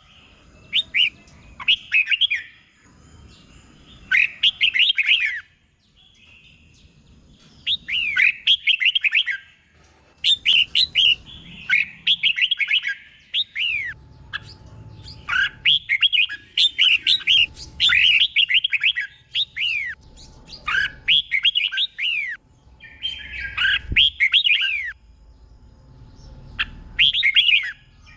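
Red-whiskered bulbul singing: short phrases of quick, bright whistled notes that sweep downward, given one after another every second or two with brief pauses between.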